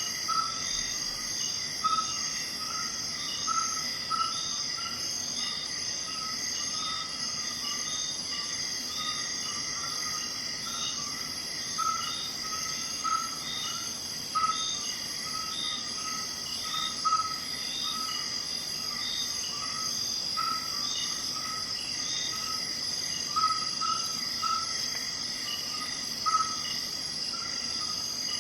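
Insects trilling steadily at several high pitches, with short chirps repeating irregularly every second or two.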